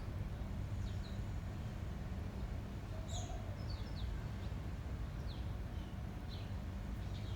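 Small birds chirping, short high calls scattered about a second apart, over a steady low rumble of wind on the microphone.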